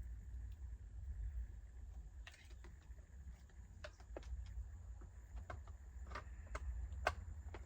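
Scattered light clicks and taps of chainsaw parts being handled as the guide bar and chain are fitted and seated, starting about two seconds in and coming more often toward the end, over a steady low rumble.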